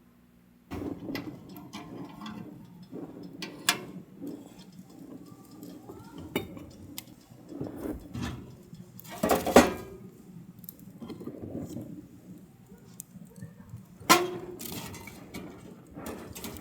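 Dishes and utensils clinking and knocking irregularly, with two louder knocks about halfway through and near the end.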